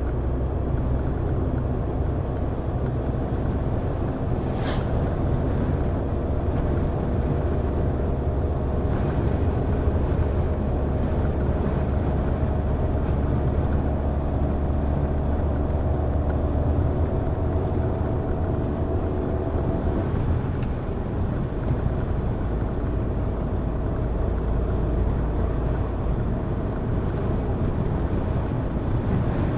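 Car driving, its engine and tyres making a steady low rumble. A brief sharp click comes about five seconds in, and the engine's hum drops away about twenty seconds in while the rumble carries on.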